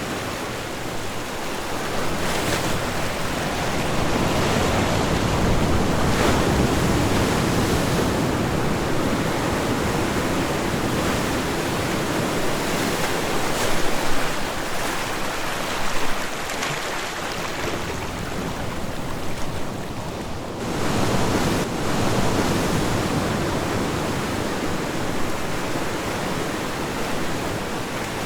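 Ocean waves breaking and washing on the shore in a continuous rolling surf, swelling and easing, with a couple of louder surges about halfway through.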